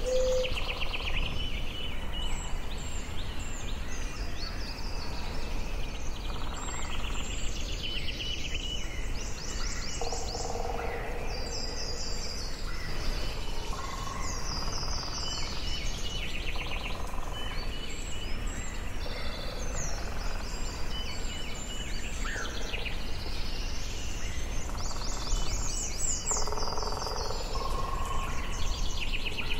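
Forest soundscape: several birds singing and chirping in short, repeated phrases, over a steady low outdoor rumble and hiss.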